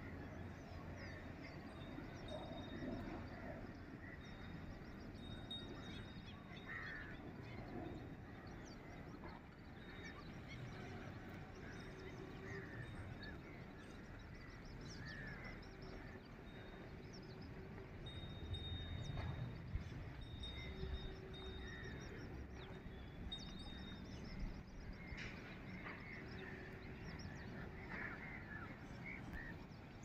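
Scattered bird calls over a steady haze of outdoor background noise.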